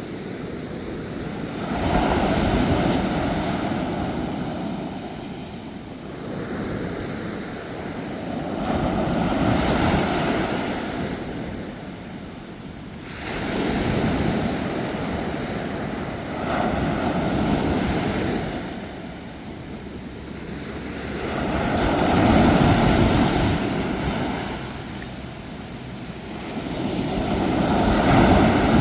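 Ocean surf: waves breaking and washing in, the noise swelling and falling away in surges every four to six seconds.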